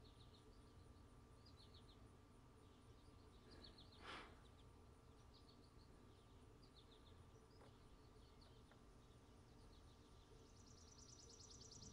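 Faint outdoor ambience with scattered short chirps of small birds. There is a brief whoosh about four seconds in, and a fast buzzing trill starts near the end.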